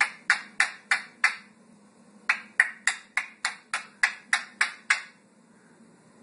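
A parrot making short, sharp sounds, about three a second, in two runs with a pause of about a second between them.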